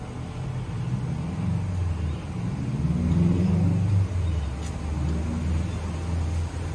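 Train running through the station: a low rumble with a droning hum that builds over the first few seconds and then stays loud.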